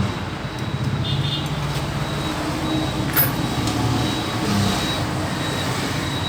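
Motor traffic rumbling steadily past on the road, with one sharp click about three seconds in.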